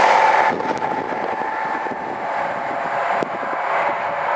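A CrossCountry Voyager diesel train that has just gone past, its rumble and rail noise dropping sharply about half a second in and then fading, with a single sharp click about three seconds in.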